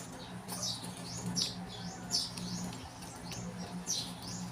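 A small bird chirping repeatedly, short high chirps about twice a second, over a steady low hum.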